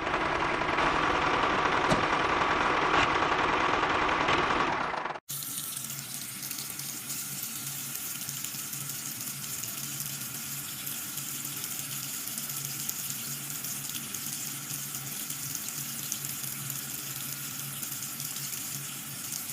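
Water running and splashing in a steady stream, loud at first. It cuts off sharply about five seconds in, then continues as a quieter steady flow over a faint low hum.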